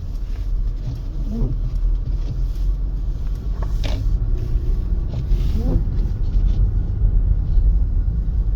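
Steady low rumble of a 2025 Mercedes-Benz GLC 300 driving slowly on a snow-covered road: tyre and road noise with the engine underneath. A few brief faint sounds occur over it, about 1.5, 4 and 6 seconds in.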